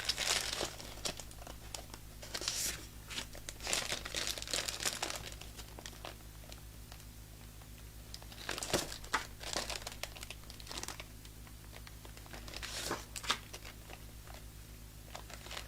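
Sheets of patterned designer series paper rustling and crinkling as they are pulled out of their pack and handled, in irregular bursts with short lulls between.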